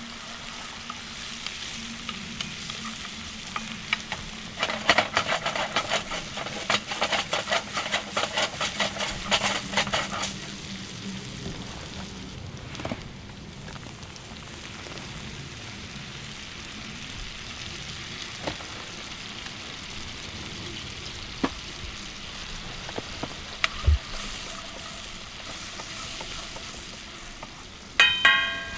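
Steak sauce sizzling in a pan, with a burst of quick stirring and scraping strokes from about five to ten seconds in. A few light clicks follow, and near the end a metal utensil clinks against the pan with a brief ring.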